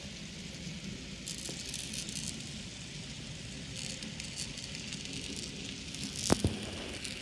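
Arnold N scale U28c model diesel locomotive running on track with a string of freight cars: a steady low rumble of the motor and wheels, with light crackling and clicking of wheels on the rails. Near the end comes one sharp click, the loudest sound.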